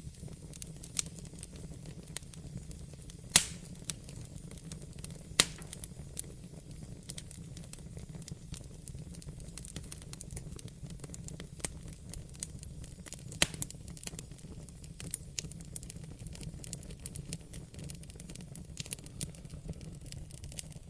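Wood fire crackling in a fireplace: irregular sharp pops and snaps over a steady low rumble of the flames, with a few louder pops about three and five seconds in.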